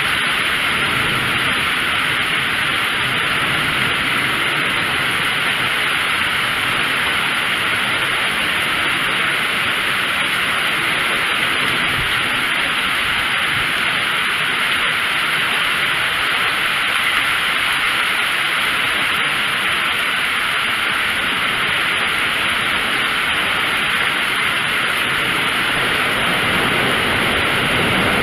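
Steady rain falling: an even hiss that holds at the same level throughout, with no thunder claps.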